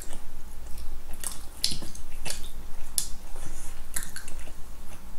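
Chewing and biting of soft chocolate-glazed Krispy Kreme doughnuts, with short irregular mouth smacks and squishes about twice a second.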